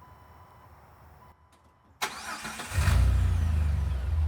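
A 2005 Jeep Wrangler Unlimited LJ's 4.0-litre inline-six is cranked by the starter about halfway through, catches within a second, and settles into a loud, steady idle through a newly fitted MBRP exhaust.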